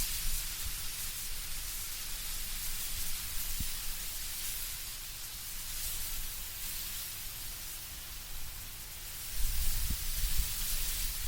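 Wind moving through autumn trees, the leaves rustling in a steady soft hiss. A low rumble of wind rises near the end.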